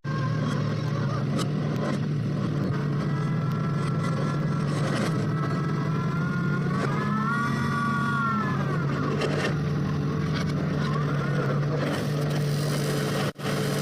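Engine of a well-drilling machine running steadily under load, with a continuous low hum. The sound drops out for an instant near the end.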